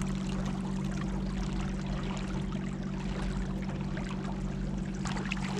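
Boat motor running at a steady pace, a constant low hum, with water rushing and splashing along the hull.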